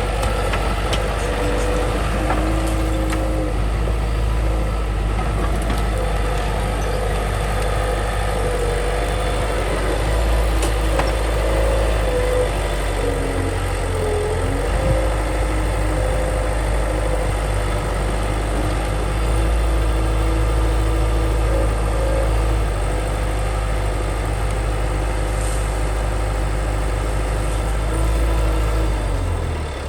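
Bulldozer's diesel engine running steadily, with a wavering whine over it that dips briefly about halfway through. The engine note drops just before the end.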